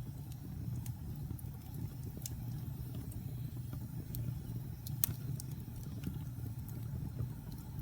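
Wood fire burning in a fireplace: a steady low rumble of the flames with scattered sharp crackles and pops from the burning logs, one louder pop about five seconds in.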